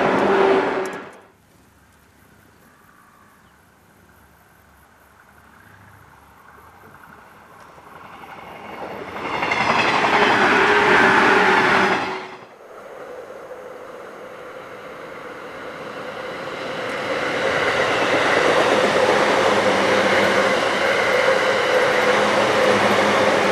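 Electric suburban trains running past on the line, in three separate takes with abrupt cuts: a passing train cut off about a second in, a second train swelling up and passing before cutting off around the middle, then a green-and-orange-striped stainless EMU growing louder and running past steadily, wheels rumbling on the rails, for the last several seconds.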